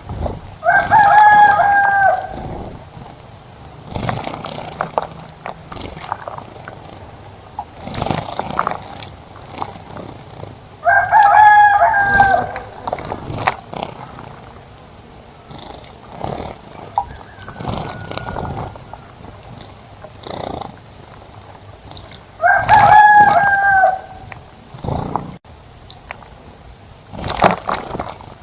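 A rooster crowing three times, about ten seconds apart, each crow lasting about a second and a half, among short scattered sounds.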